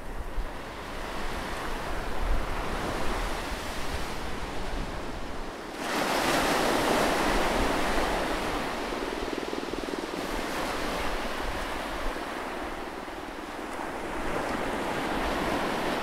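Atlantic Ocean surf: a steady wash of waves, with one wave breaking suddenly about six seconds in and slowly washing out, and another swell building near the end.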